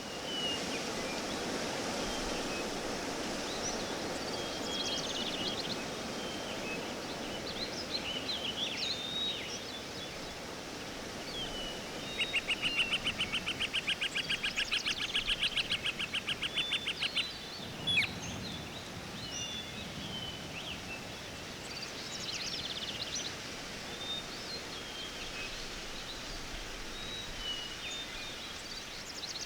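Forest ambience with scattered bird chirps over a steady background hiss. About twelve seconds in, a rapid pulsing trill runs for about five seconds, and one sharp click follows shortly after.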